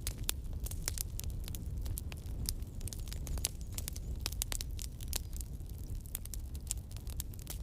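Wood fire crackling and popping: many quick irregular snaps over a steady low rumble of burning.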